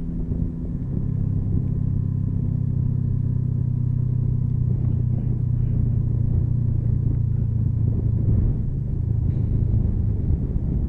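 Motorcycle engine running at steady revs while riding, its note settling slightly lower about half a second in, over a low rumble of road and wind noise.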